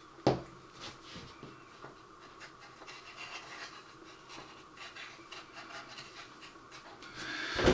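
Soft, scratchy strokes of a paintbrush working weathering powder onto a plastic model building, with a sharp tap about a quarter second in.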